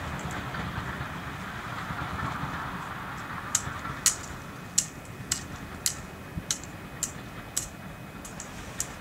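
A train that has just passed, its rumble fading away. From about three and a half seconds in, a run of sharp high clicks comes roughly every half second.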